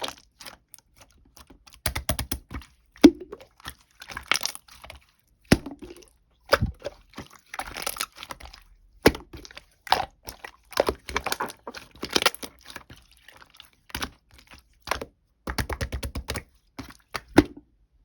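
Irregular crunching and cracking, with sharp clicks and a few quick rattling runs of taps.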